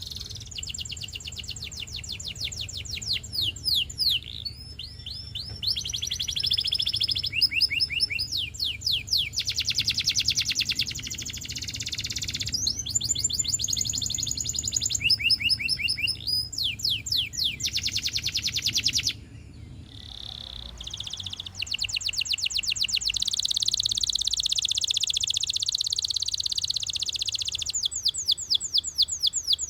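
A Russian canary singing a long song of rapid trills: runs of fast repeated sweeping notes, each phrase held for a second or a few before switching to a new one, with a short break about 19 seconds in.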